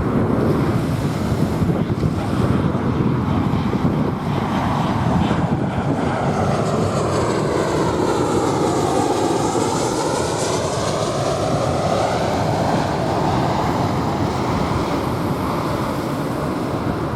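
Jet airliner passing overhead, its engine noise carrying a swooshing tone that dips and rises again about midway through, over waves washing on a sandy beach and wind on the microphone.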